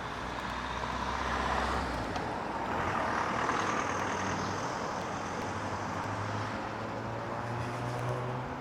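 Heavy vehicle's diesel engine running steadily, its low note climbing slowly through the second half as it works harder.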